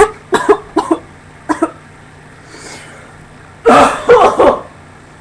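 A person coughing hard in short fits: several sharp coughs about half a second apart over the first couple of seconds, then a longer bout of coughing near four seconds in. The coughing comes from someone ill, who feels close to vomiting.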